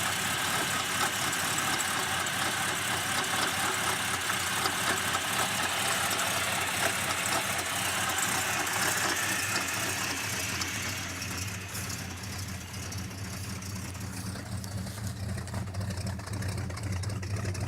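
Ford ZH Fairlane's 351 V8, fitted with extractors, idling steadily soon after a cold start on a stone-cold engine. About eleven seconds in, the higher part of the sound fades and a lower, deeper hum comes to the fore.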